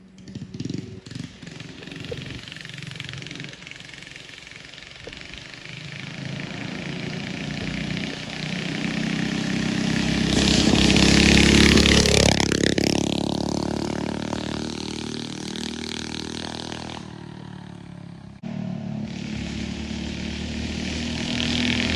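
Straight-piped 4 hp Briggs & Stratton flathead minibike engine running as the bike is ridden toward and past: it grows louder over about ten seconds, its pitch drops as it passes, and it fades away. Near the end a louder, nearer engine sound comes in abruptly.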